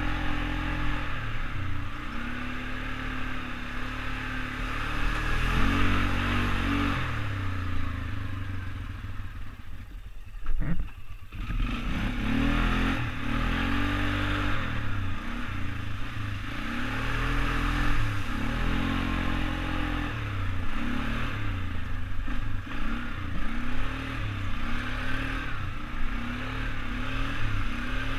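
ATV engine running while being ridden, revving up and easing off again and again. About eleven seconds in it drops briefly and there is a sharp knock.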